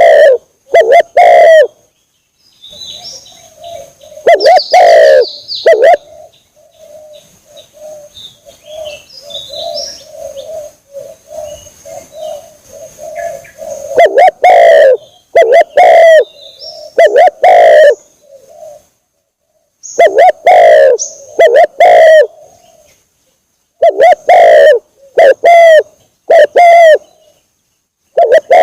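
Spotted dove (tekukur) lure call: repeated low, pitched coo phrases in loud groups, with a softer stretch of cooing from about six to fourteen seconds in. A few high chirps from small birds come in between.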